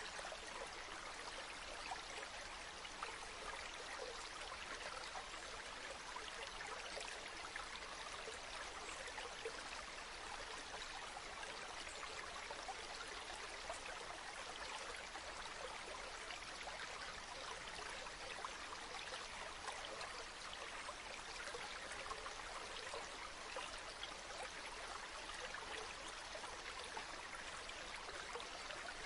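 A small mountain stream trickling and babbling over rocks, a soft steady burble with fine splashing detail.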